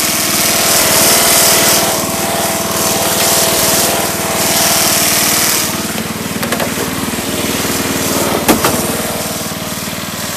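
Riding mower's small gasoline engine running steadily just after a cold start, now able to idle; it drops a little in loudness about six seconds in. A single sharp click near the end.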